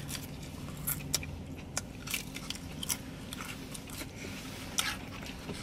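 Close-up chewing and biting of food, with a few short sharp clicks and crunches scattered through, over a low steady hum.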